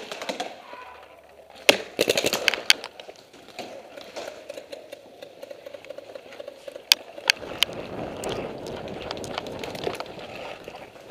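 Paintball marker shots: a quick burst of several pops about two seconds in, then three single pops a little past halfway, over a steady noisy background.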